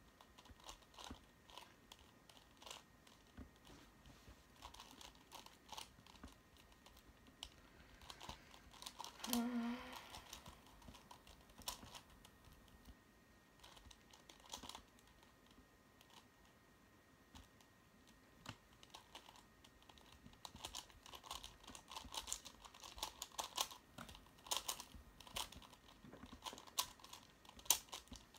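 Plastic puzzle cube being turned by hand: irregular runs of quick clicks and rattles from the layers turning, busier near the end. There is a short voiced sound from the solver, like a brief hum or groan, about nine seconds in.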